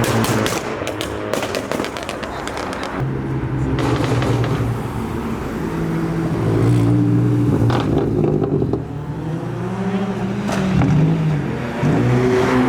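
Modified car engines running and revving as they drive out, their pitch rising and falling, with a cluster of sharp cracks in the first couple of seconds.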